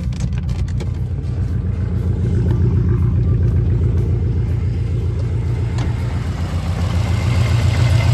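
Jaguar XJR's supercharged V8 idling with a steady low pulsing rumble, a little louder near the end. It runs without shaking, a sign that the cylinder 4 misfire is cured after the injector swap.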